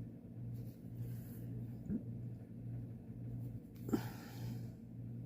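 A quiet pause under a steady low electrical hum, with a soft short rustle about four seconds in.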